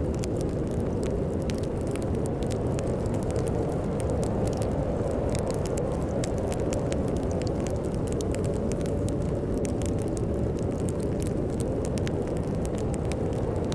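Wood fire crackling with many small irregular pops over a steady low rush of storm wind.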